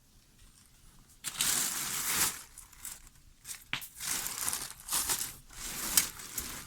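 Trash being crumpled and crushed by hand, in irregular rustling bursts starting about a second in.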